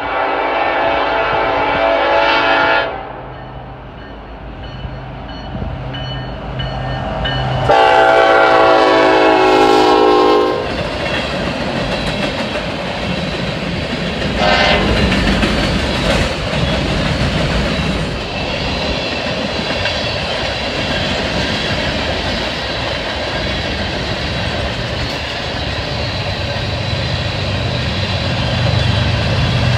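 Diesel freight locomotive's multi-chime air horn sounding two long blasts and a short one, followed by a long train of freight cars rolling past with steady clickety-clack wheel noise. A low locomotive engine rumble swells near the end as mid-train locomotives draw near.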